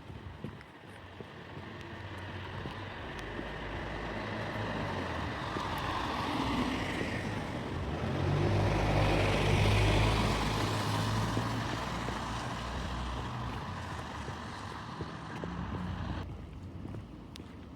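A motor vehicle passing close by: its engine and tyre noise builds up, is loudest about halfway through, then fades, and the low engine hum cuts off near the end.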